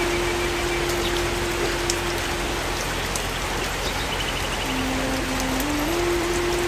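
Steady rain falling, an even hiss of raindrops on surfaces. A faint held tone runs under it and steps down and back up in pitch a few times near the end, like a slow melody.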